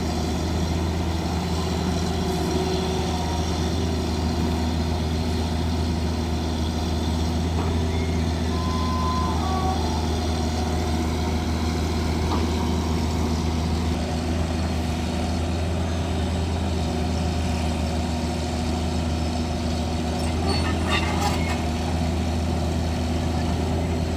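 Heavy diesel engine of construction machinery running steadily at an even speed. A brief high tone sounds about nine seconds in, and a few light knocks come near the end.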